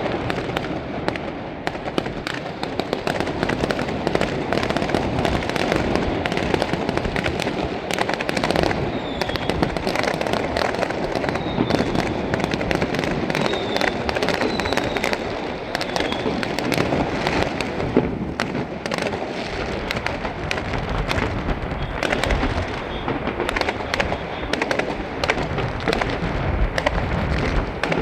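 A dense, continuous barrage of aerial fireworks: rapid crackling and popping over overlapping booms. A few short, faint whistles come through about a third of the way in.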